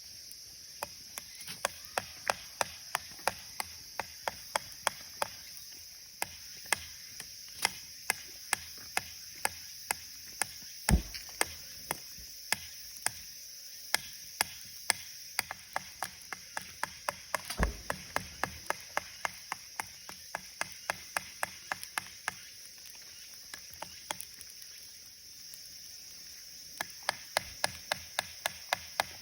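Wood fire crackling in a Firebox camp stove, with sharp pops coming two or three a second over a faint hiss. Two dull low thumps, the first a little over a third of the way in and the second past halfway.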